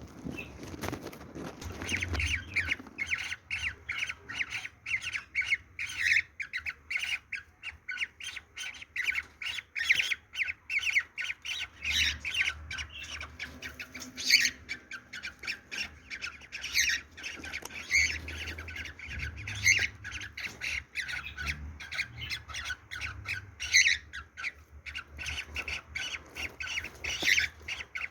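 Cockatiel giving its mating call: a fast, unbroken run of short, high squawking chirps, several a second, with a louder, sharper call every few seconds.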